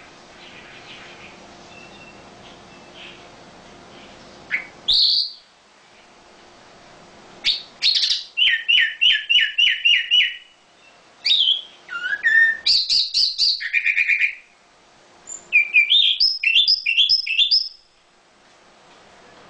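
A bird singing: a short call, then three loud phrases of fast repeated chirps, several notes a second, with pauses between them.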